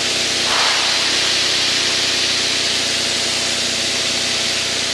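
Light aircraft piston engine and propeller running at a steady drone, heard from inside the cockpit with a loud rush of airflow over it.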